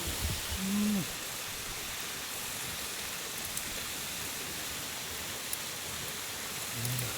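Steady, even hiss of noise, with a short low hum about a second in and another near the end.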